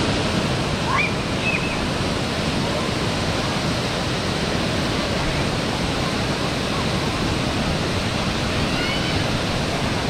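Waterfall: steady, full rushing of falling water, with a few faint high chirps about a second in and near the end.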